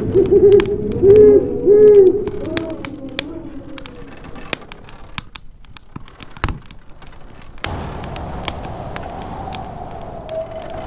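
Howling snowstorm wind, its whistling pitch wavering and looping, loudest in the first two seconds and settling into a steadier whistle from about three-quarters of the way in. A wood fire crackles and pops throughout, with one sharp pop around the middle.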